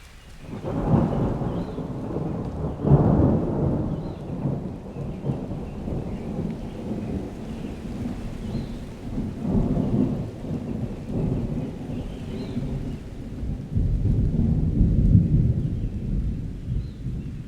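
Rolling thunder rumbling in long waves over steady rain. The rumble swells in sharply about a second in, peaks around three seconds, and builds again near the end.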